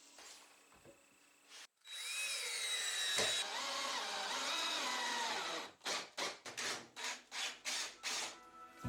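A power tool working wood: a loud run for about four seconds with its whine shifting in pitch, then a series of short strokes at about three a second.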